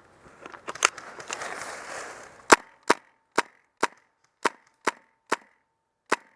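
Airsoft rifle firing semi-automatic, eight sharp single shots at about two a second, beginning about two and a half seconds in. Before the shots, rustling and footsteps of the player moving.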